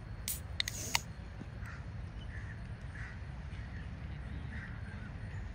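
A bird calling repeatedly, about five short calls roughly two-thirds of a second apart, over a steady low rumble. A few sharp clicks come in the first second.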